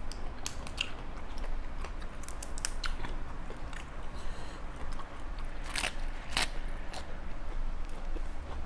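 A person chewing a mouthful of spicy Thai seafood salad close to the microphone, with scattered crunches and sharp clicks, the two strongest about six seconds in, over a low steady hum.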